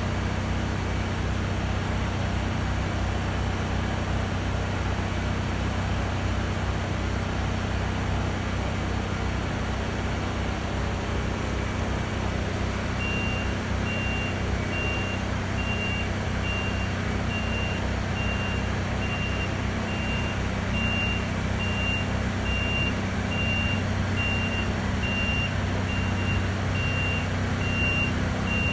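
Truck engine running steadily, with a reversing alarm beeping at an even pace from about halfway through.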